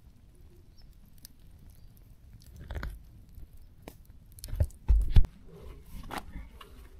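Dry crunching and scattered knocks of close handling, with a few heavy low thumps a little past the middle.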